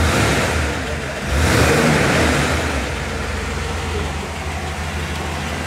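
1957 Ford Thunderbird's Y-block V8 idling steadily, with a louder rush of noise for a second or so about a second in.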